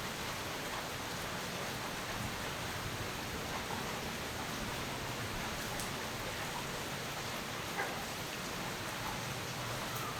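Steady rain falling, an even hiss with a brief tap about eight seconds in.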